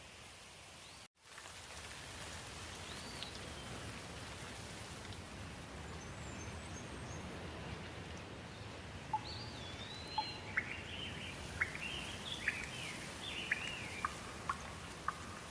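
Steady rain falling, with birds calling over it. From about nine seconds in there is a quick run of short, sharp chirps. The sound cuts out for a split second about a second in.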